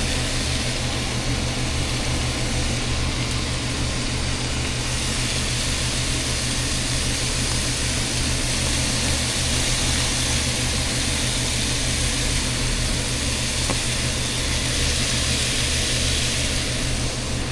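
Buns toasting on a hot griddle with an even sizzle, over the steady low hum of a kitchen exhaust fan.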